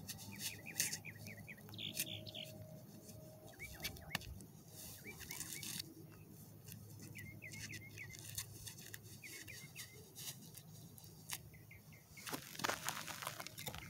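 Small birds chirping in short phrases of quick high notes every second or two, with scattered faint clicks. About a second and a half before the end, louder crunching footsteps on dirt and gravel begin.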